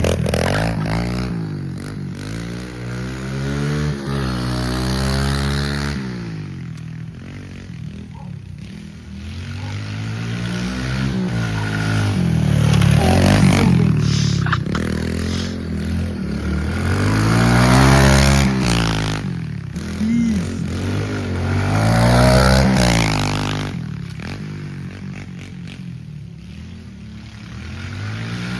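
Kawasaki KLX110 pit bike's small single-cylinder four-stroke engine revving up and dropping back again and again as it is ridden. The sound swells and fades several times.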